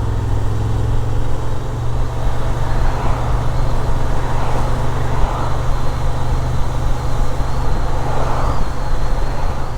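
Motorcycle engine running steadily while riding along, a constant low hum with road and wind rush over it.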